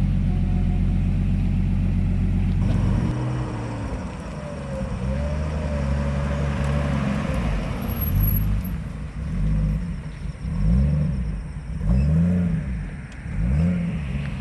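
Car engine idling steadily, then revved in about five short throttle blips in the second half, each rising and falling in pitch.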